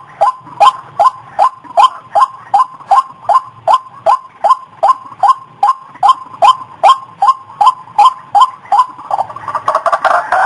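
White-breasted waterhen (ruak-ruak) lure call: a short downward-sliding note repeated evenly, about two and a half times a second, breaking into a denser, louder jumble of calls near the end.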